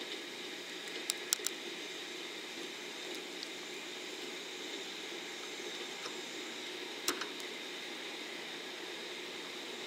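Doctor Yellow 923-series Shinkansen inspection train rolling slowly through the yard's switches, a steady distant running noise. Three sharp clicks come close together about a second in, and one more near seven seconds.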